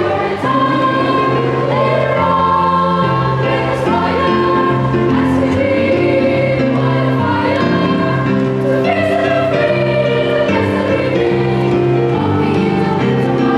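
Children's choir singing a Christmas carol with musical accompaniment, in long held notes.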